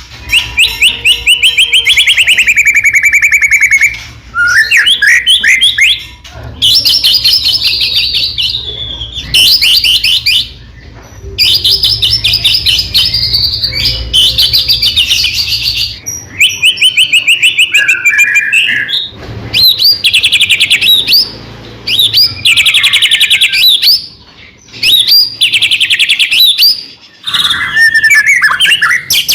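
White-rumped shama (murai batu) singing loudly in varied phrases of rapid trills and whistles. Each phrase lasts one to two seconds, with short pauses between them.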